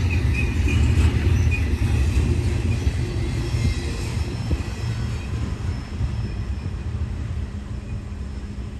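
Double-stack container train rolling past: a deep rumble of wheels on rail, with a faint wheel squeal in the first couple of seconds, slowly fading as the train moves away.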